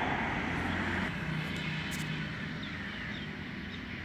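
Steady engine noise of a passing vehicle, fading away over the first second or so, with a few faint bird chirps later on.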